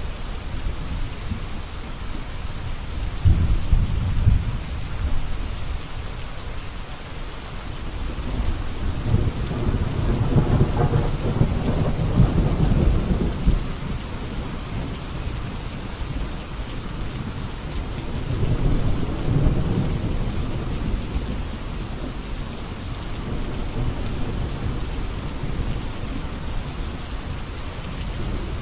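Steady heavy rain with thunder rolling in the background: three long, low rumbles swell and fade over the rain's even hiss, the longest near the middle.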